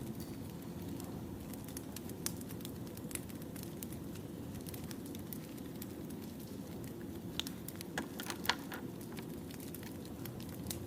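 Burning firewood crackling: a steady low rumble with scattered sharp pops, a few louder pops about eight seconds in.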